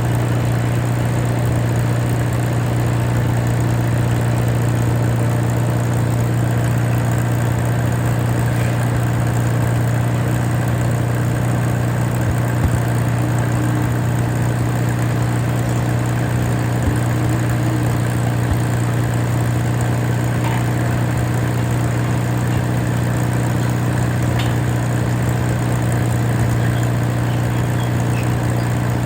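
Allis-Chalmers WD tractor engine running at a steady speed.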